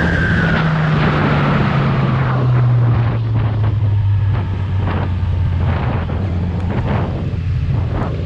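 Kawasaki Z1000R's inline-four engine on the stock exhaust, revs falling steadily as the motorcycle rolls off and slows, with wind rushing over the microphone. Scattered short sharp pops or clicks come in from about three seconds in.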